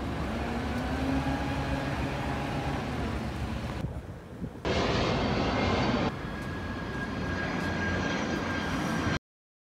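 BMW R1250RS boxer-twin engine running on the move, with a steady rush of wind noise. The sound changes abruptly about four seconds in and again about six seconds in, with a brief quieter dip around four seconds.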